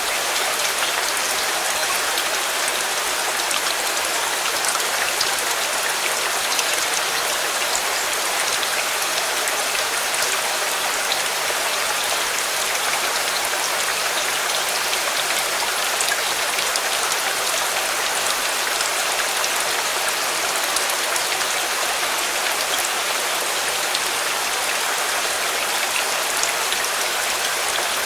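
Steady heavy rain falling, an even hiss with a dense patter of individual drops that holds unchanged throughout.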